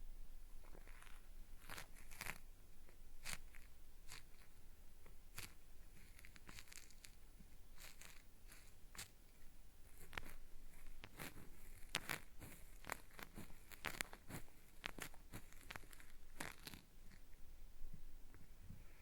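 Cotton swab rubbing and scraping close against a binaural microphone's ear, making irregular gritty, crackling scratches, like something being peeled away. The strokes come thicker and louder in the second half.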